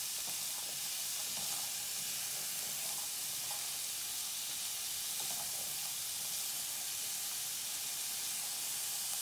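Diced onion, carrot and garlic sizzling steadily in a frying pan, with a wooden spoon stirring them round.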